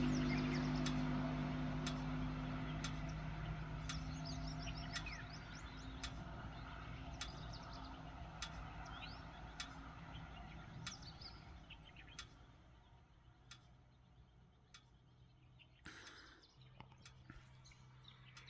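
Small birds chirping with short, quick calls while a vehicle's engine hum fades into the distance. A faint regular ticking runs underneath.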